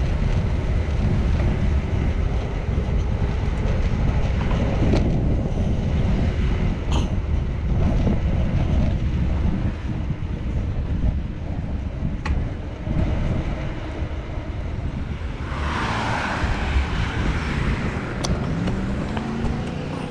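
Wind rumbling on the microphone of a moving bicycle, with road traffic going by; a louder rush of passing traffic comes about three-quarters of the way through.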